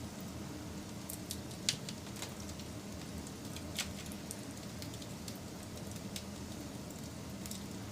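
Wood fire burning, with irregular sharp crackles and pops over a steady low rumble. Two louder pops come about two and four seconds in.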